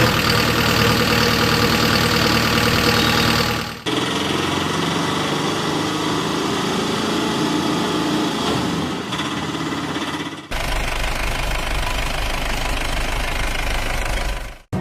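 Tractor engines running steadily, in three separate clips joined by abrupt cuts about 4 seconds and 10 seconds in.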